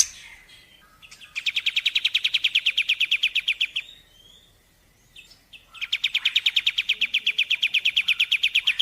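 A bird calling in two long, fast, even trills of rapid repeated notes, each lasting about two and a half seconds, with a short pause between them.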